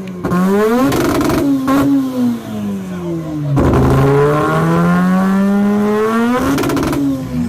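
Car engine with a loud exhaust being revved. The revs climb and fall slowly, drop sharply about three and a half seconds in, then climb again.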